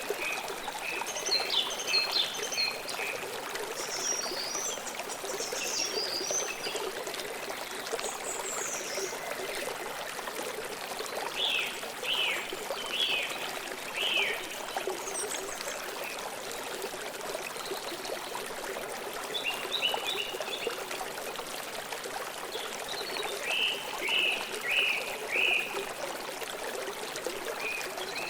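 River water flowing steadily, with songbirds chirping in short bursts of calls every few seconds over it.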